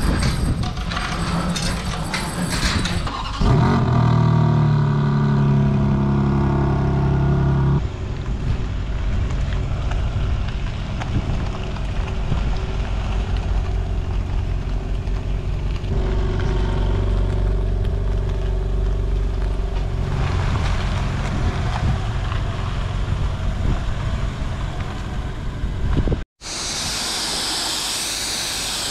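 A roller shutter rattles open, then the BMW G80 M3's twin-turbo straight-six comes in loud about three seconds in at a raised, steady idle and settles to a lower idling rumble after about eight seconds as the car is moved. Near the end it cuts to the steady hiss of an air blower drying the wet paintwork.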